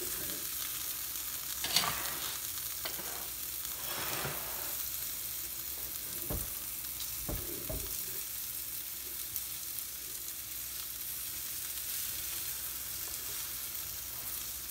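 Flour-coated chicken pieces sizzling steadily as they shallow-fry in hot oil in a frying pan, the sizzle showing the oil is hot enough. A few light knocks from metal tongs against the pan or food, around two, four, six and a half and seven and a half seconds in.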